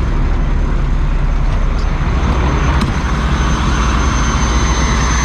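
Steady low rumble of an idling diesel truck engine, with a hiss that grows from about two seconds in and a thin, steady high whine over it.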